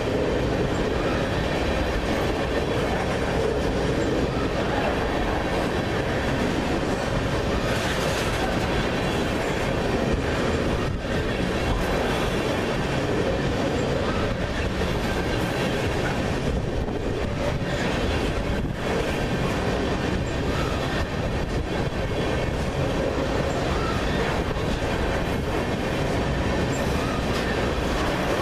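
Freight train of crude oil tank cars rolling past close by at speed: a steady, loud noise of steel wheels running on the rails.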